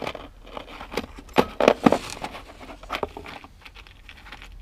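Small jewelry pieces and bags being handled: a run of sharp clicks and light rustling, with the loudest cluster of clicks between one and two seconds in.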